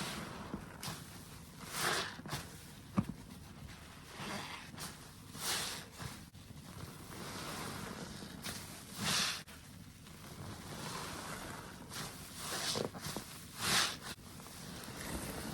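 A soapy sponge being squeezed and released by hand, giving wet squelching, foamy swishes in repeated squeezes a few seconds apart, with a few small sharp clicks between them.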